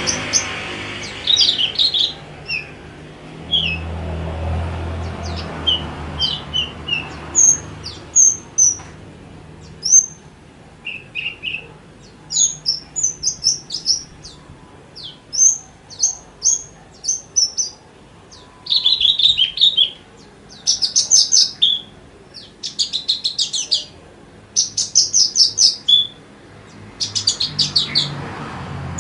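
Javan bush lark (branjangan) singing a busy, varied song of short chirps and whistled notes, with fast trilled phrases in the second half.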